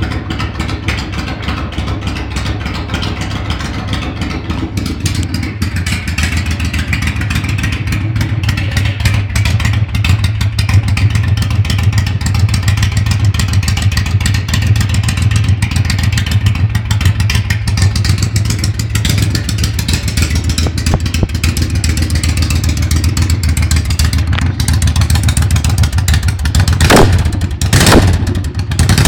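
Moto Guzzi V65 air-cooled 90-degree V-twin running with no muffler, idling steadily with loud, raw exhaust pulses. The throttle is blipped twice near the end.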